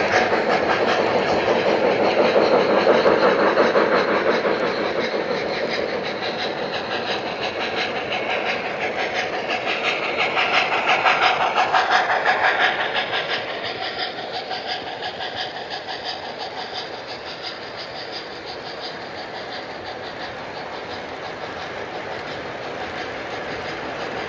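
Model trains running on a layout, their wheels clicking rapidly over the track, swelling as a train comes close about three seconds in and again about ten seconds in, then fading.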